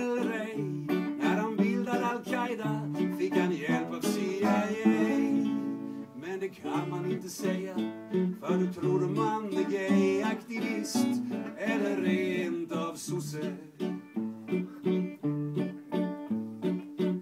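Acoustic guitars playing a song without words, strummed and plucked chords with a melody line over them.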